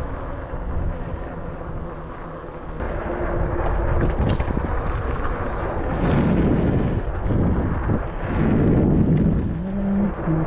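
Wind buffeting the microphone over the rumble of a Wired Freedom e-bike riding along a trail, swelling louder twice in the second half, with a short steady hum near the end.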